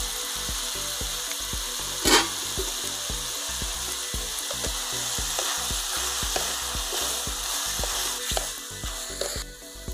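Cubed ridge gourd sizzling in hot oil in an aluminium kadai, with small clicks and scrapes as it is stirred with a wooden spatula. One louder knock about two seconds in, and the sizzle drops away shortly before the end.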